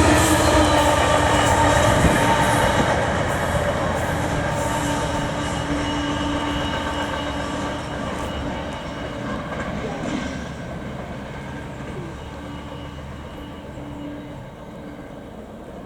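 A train passing on the line and moving away, its rumble fading steadily. Several steady tones ring over the rumble, and a run of wheel clicks is heard in the first few seconds.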